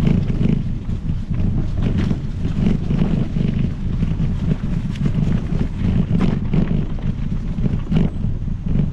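Wind buffeting the microphone over the rumble of a Specialized Epic Pro mountain bike's tyres rolling along a trail, with scattered knocks and rattles from bumps.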